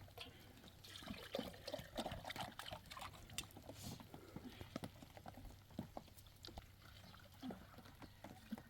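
Rainwater dripping and splashing, with many small irregular splashes and taps.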